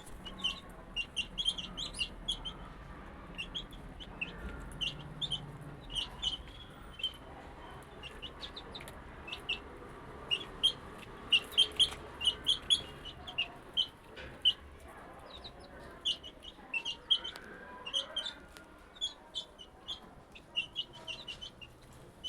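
A group of 22-day-old chicks peeping almost continuously: many short, high cheeps, several a second, overlapping.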